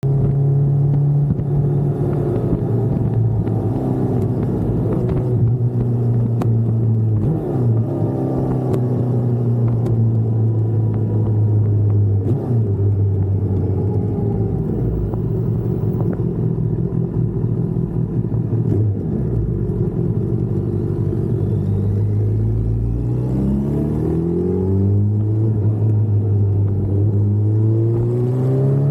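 Kawasaki inline-four sport motorcycle engine running at a steady cruising pitch. About three-quarters of the way through, the engine drops off briefly, then its pitch rises in a few steps as the bike accelerates through the gears.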